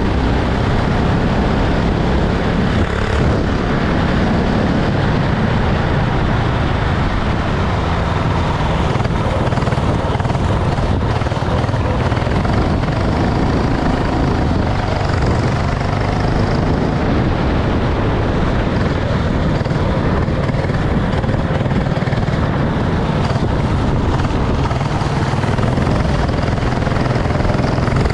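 Racing kart engine running steadily and loud without a break.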